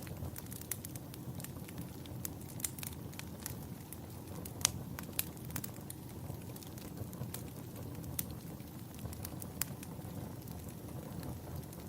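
Campfire burning: a steady low rumble of flames with irregular sharp crackles and pops from the burning wood, one louder pop about halfway through.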